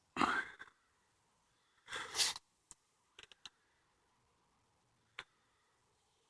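Two short crunching rustles about two seconds apart, such as leaf litter or twigs on a woodland path, followed by a few small sharp clicks.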